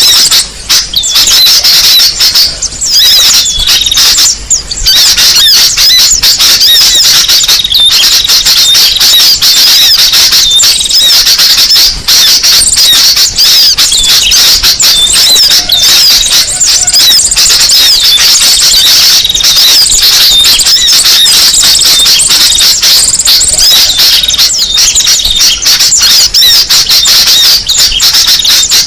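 Bird-lure recording of small songbirds: a loud, unbroken chatter of many overlapping high-pitched chirps and squeaks.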